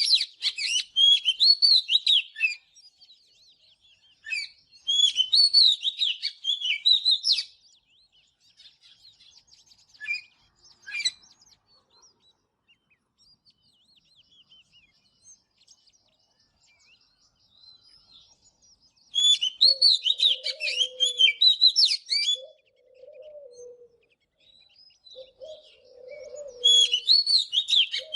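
Oriental magpie-robin singing in bursts of rich, varied whistled phrases, with quieter gaps between them. From about two-thirds of the way in, low cooing notes, like a dove's, repeat under the song.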